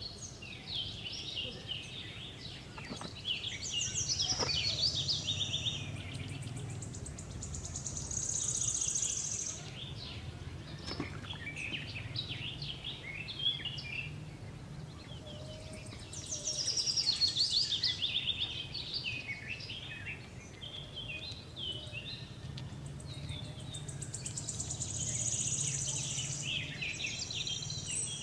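Wild birds chirping and calling in repeated clusters of high, quick notes, some falling in pitch, over a steady low background hum.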